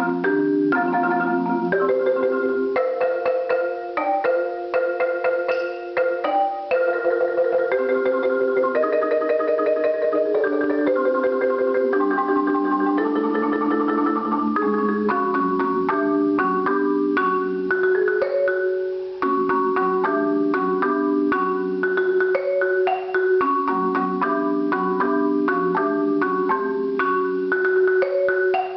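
Solo marimba played with mallets: a continuous flow of struck notes in changing chords, with one mid-range note held steadily under the moving notes through roughly the second half.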